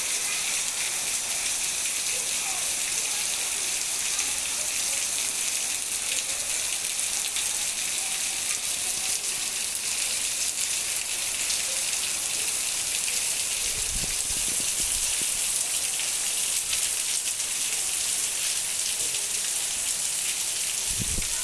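Heavy rain falling steadily, a dense, even hiss of drops on surfaces, with a few low bumps about two-thirds of the way through.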